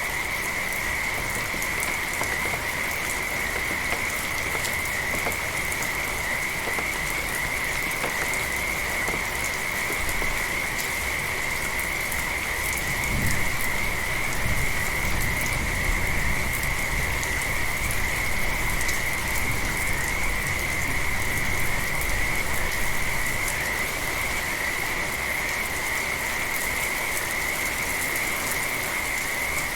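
Steady rain falling with a chorus of frogs calling, their calls merging into one continuous high trill. A low rumble swells for several seconds about halfway through.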